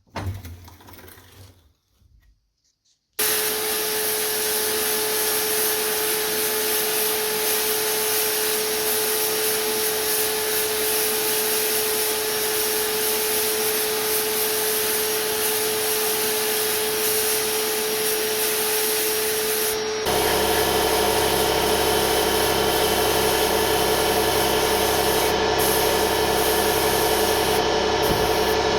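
A power tool running steadily on a metal part, with a rubbing, abrasive sound. It starts about three seconds in, and its sound changes abruptly about twenty seconds in.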